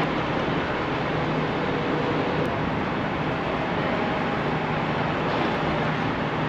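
A running vehicle: a steady noisy drone with a constant low hum.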